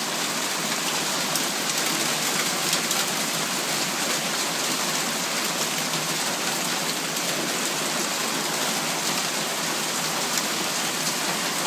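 Hailstorm with heavy rain: a steady, dense hiss of rain and hailstones pelting down.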